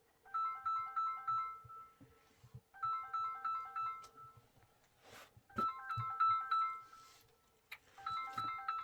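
Mobile phone ringing for an incoming call: a short electronic ringtone tune of quick stepped notes, played four times with brief pauses between.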